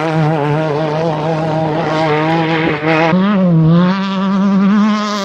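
Off-road race vehicle's engine running hard at high revs, its pitch wavering, then rising a little about three seconds in and holding.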